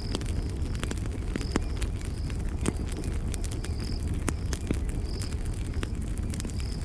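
Campfire crackling, with frequent sharp pops and snaps over a steady low rumble of burning. A cricket chirps in short high notes about once a second.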